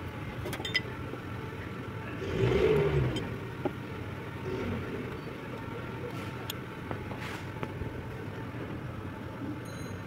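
A vehicle engine running over a steady hum, revving up briefly and dropping back a little over two seconds in, with a few light clicks.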